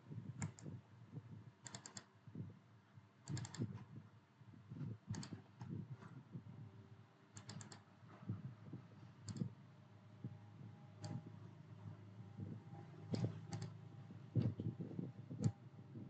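Faint computer keyboard and mouse clicks, coming irregularly in quick groups of two to four, over a low hum.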